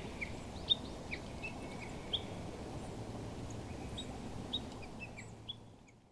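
Small birds chirping: a dozen or so short, sharp, high calls at irregular spacing, over a steady low background hiss. The sound fades out near the end.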